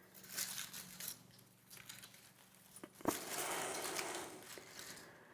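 Faint rustling and handling of an evergreen foliage garland and its decorations: scattered soft rustles, then a sharp knock about three seconds in followed by a second or so of rustling.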